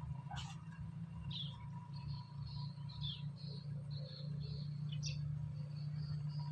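Small birds chirping in short, scattered calls over a steady low hum, with a brief click about half a second in.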